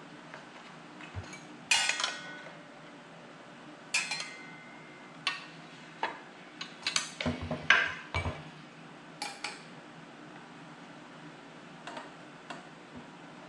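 Metal tool parts being handled: a string of sharp clinks and knocks, some with a short metallic ring, and two heavier knocks about halfway through, over a low steady hum.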